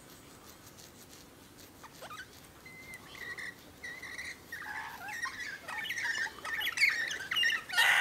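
Birds calling: short chirps and squawks start about three seconds in and build into a busy chatter, loudest near the end.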